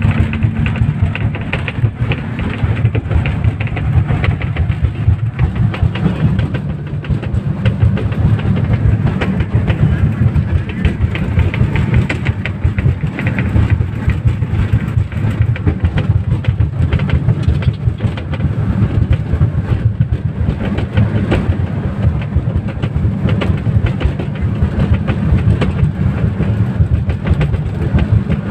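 Passenger speedboat running at speed through heavy rain. The engines drone steadily and low under a hiss of rain and wind, with many small knocks and slaps.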